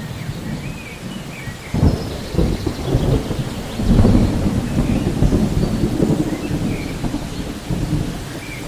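Steady rain with rolling thunder: a low rumble swells about two seconds in, peaks around four seconds, then rolls on more softly.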